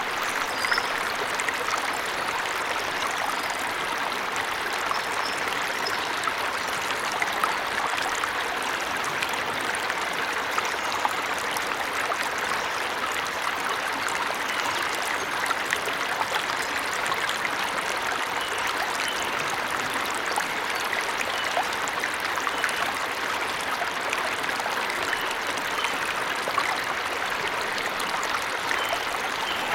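Waterfall in a forest, the water rushing steadily and evenly, with a few faint bird chirps now and then.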